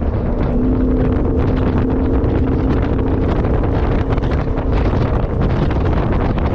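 Heavy wind buffeting the microphone, a loud steady rumble, with a faint steady engine hum underneath that fades about two-thirds of the way through.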